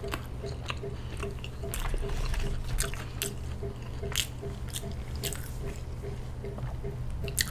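Close-miked chewing and mouth sounds of someone eating, with many sharp wet clicks. Underneath runs a steady low hum with a soft pulse about twice a second, from an air conditioner running in the room.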